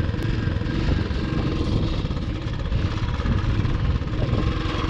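Royal Enfield Classic 350's single-cylinder engine running as the bike moves off over gravel. Water got into the engine at the crossing and the rider says it is slow to pick up on the throttle.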